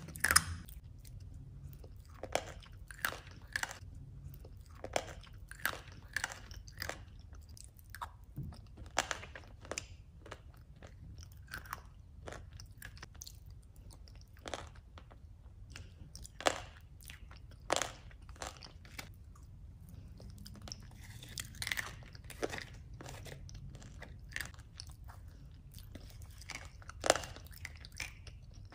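Close-miked chewing and crunching of a spoonful of Chudo crunchy chocolate dessert: creamy chocolate mousse with crisp flakes on top, giving irregular sharp crunches between softer wet mouth sounds, over a low steady hum.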